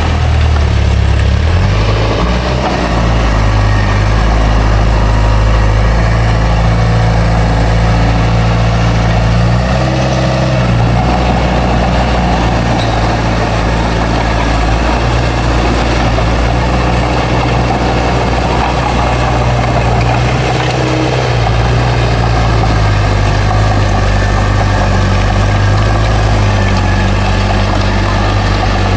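A bulldozer's heavy diesel engine runs steadily and loudly, with brief small shifts in engine speed as the machine works.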